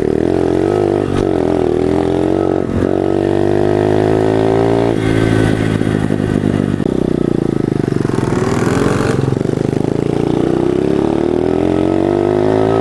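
Small single-cylinder pit bike engine, a 110, running as it is ridden, with revs rising and falling throughout and climbing higher about eight seconds in before easing off.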